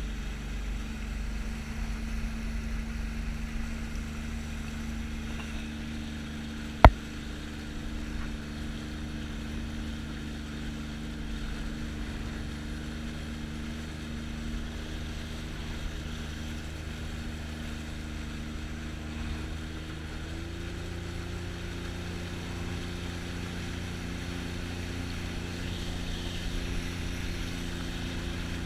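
Sea-Doo GTX 300 jet ski's supercharged engine running at a steady speed; its pitch steps up slightly about two-thirds of the way through. A single sharp click about seven seconds in is the loudest sound.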